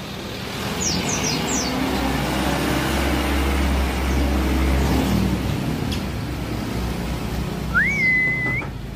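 A motor vehicle passes, its noise swelling and fading over several seconds. A few short, high, falling white-eye chirps come about a second in, and a single clear whistled note rises and then holds steady near the end.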